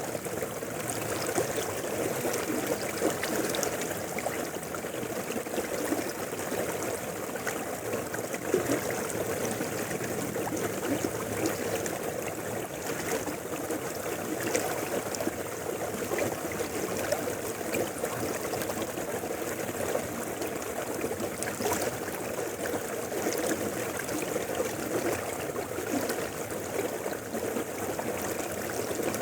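Mountain river flowing over rocks: a steady rush of water with small splashes and gurgles running through it.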